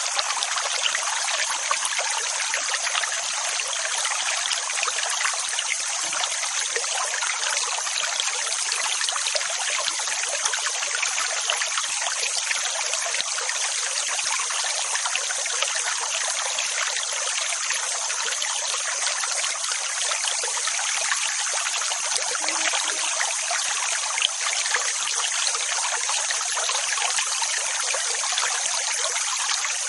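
Steady rushing water: an even, hissing wash with no rise and fall of separate waves.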